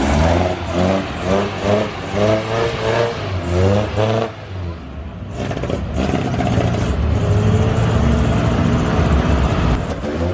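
A car engine revved in quick repeated blips for about four seconds, then running steadily at a low, even pitch.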